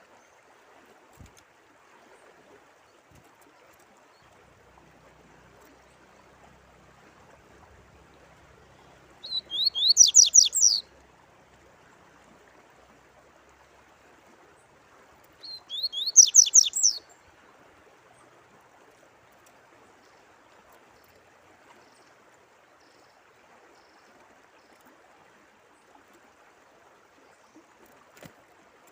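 A songbird sings two short bursts of fast, repeated notes, about nine and fifteen seconds in, each lasting about a second and a half. A faint, steady trickle of running water continues underneath.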